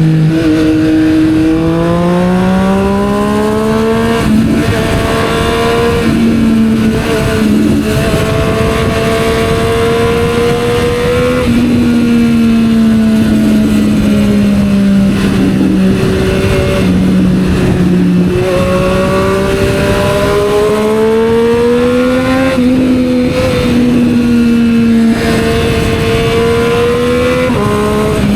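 Triumph Street Triple 765 R three-cylinder engine running through a Yoshimura aftermarket exhaust while riding. Its pitch rises under throttle, holds while cruising, sags as the throttle closes, and steps up or down several times with throttle and gear changes, over wind rush.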